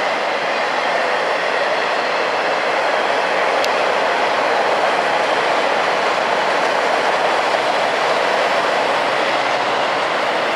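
Norfolk Southern freight train cars rolling past on the rails, a steady even noise of wheels on track.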